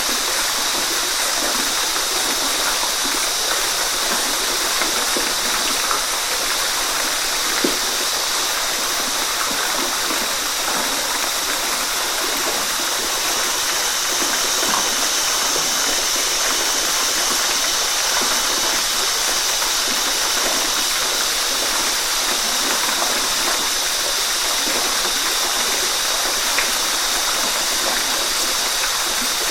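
Waterfall: a steady, even rush of falling water, mostly hiss with little low rumble, flecked with small splashes.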